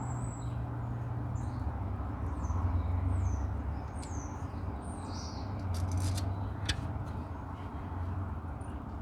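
Small birds chirping in short, quick calls over a steady low rumble, with a few sharp clicks about six to seven seconds in.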